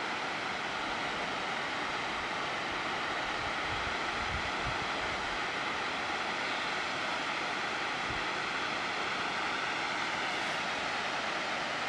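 Steady rush of the Namegawa Ōtaki waterfall, a continuous even noise of falling water, with a few brief low rumbles about four and eight seconds in.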